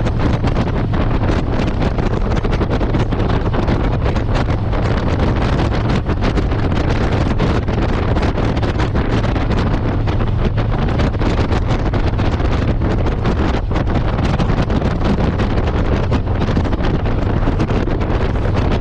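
Wind buffeting the microphone on a moving motorcycle, a loud steady rush, with the motorcycle's engine running low and steady beneath it.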